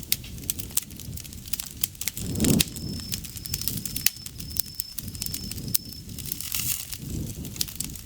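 Campfire burning, with frequent sharp crackles and pops over the low rush of the flames, which swells briefly about two and a half seconds in. An insect trills in a high, even tone in several short stretches from about three to six seconds in.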